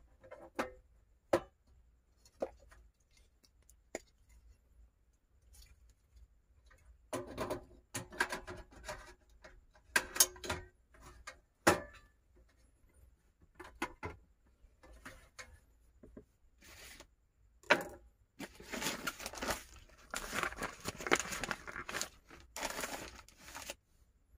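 Rustling, crinkling and tearing of something being handled, such as packaging, in the small space of a car cabin. Scattered clicks and knocks run through it, and the rustling comes in longer spells near the middle and again toward the end.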